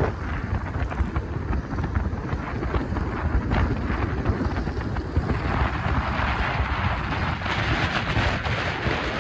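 Motorcycle engines rumbling in the street, mixed with wind buffeting the microphone; the sound grows brighter and louder from about halfway in, as a bike comes closer or revs.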